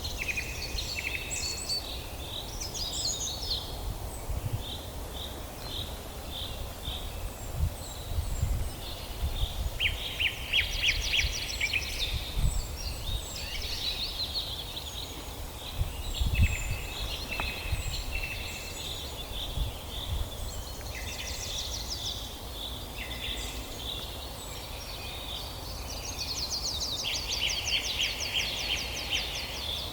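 Several songbirds singing together in a forest: overlapping chirps and whistled phrases, with fast rattling trills about a third of the way in and again near the end. A low, uneven rumble sits underneath.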